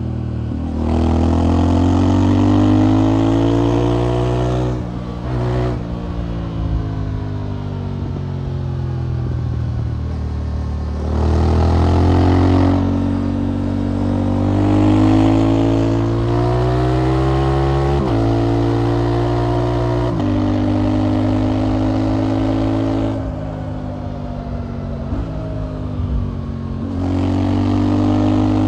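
Motorcycle engine under way, accelerating hard: the pitch climbs and then falls back abruptly at each gear change or roll-off, over and over, with the loudest pulls in the first few seconds, around the middle and near the end.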